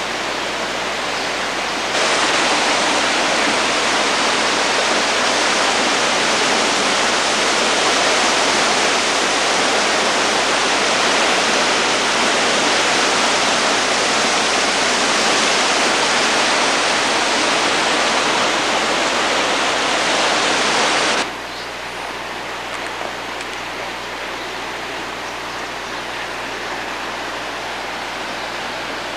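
Flash-flood water rushing down a wadi channel: a steady, loud roar of moving water. It jumps louder about two seconds in and drops back abruptly with about eight seconds left.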